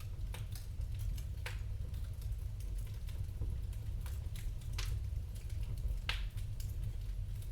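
Wood fire crackling in a fireplace: irregular sharp pops and snaps, a few louder ones about a second and a half, almost five and about six seconds in, over a low steady rumble.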